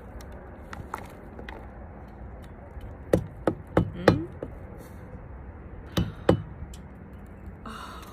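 Sharp knocks: four in quick succession about three seconds in, then two more about two seconds later.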